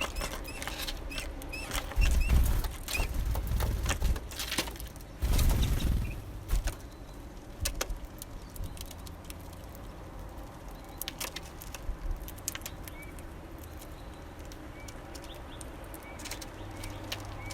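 Small songbirds at a feeder: wings flutter among low thumps and sharp clicks, and short high call notes come now and then. The thumps and fluttering are heaviest in the first six seconds, and the calls come again near the end.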